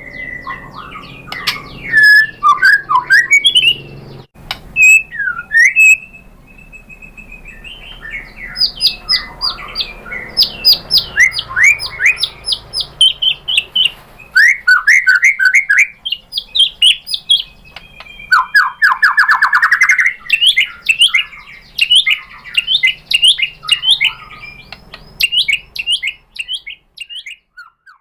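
White-rumped shama singing a loud, varied song of whistled phrases and quick runs of repeated notes, with a fast trill about two-thirds through. The song stops briefly near the end.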